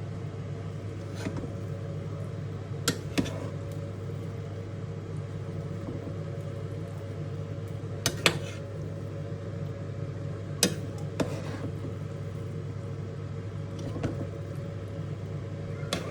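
A spoon knocking against a cooking pot now and then as cooked chicken biryani is mixed, about eight sharp knocks at uneven intervals over a steady low hum.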